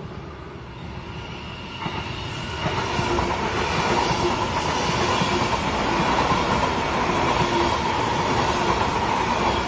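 Electric multiple-unit passenger train running along the platform close past, growing louder over the first few seconds as it nears. A steady whine sits over the rumble of the wheels on the rails.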